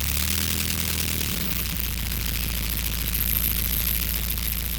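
Light single-engine airplane's piston engine running steadily at low power, a deep even hum under a broad hiss.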